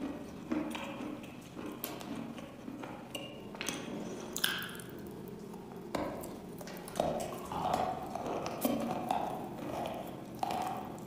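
Close-miked eating of wet chalk: chewing with small crunches and wet mouth clicks, then a sharp crunching bite into the block about six seconds in, followed by more wet chewing.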